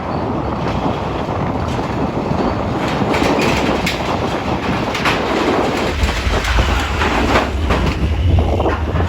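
Strong wind buffeting the microphone in a loud, continuous roar with scattered knocks, joined by a deep rumble from about six seconds in.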